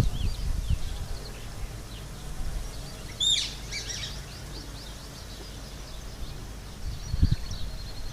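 Small birds chirping: scattered short high chirps, a quick cluster of them about three seconds in, and a fast repeated high note near the end. Low thumps or rustles near the start and about seven seconds in.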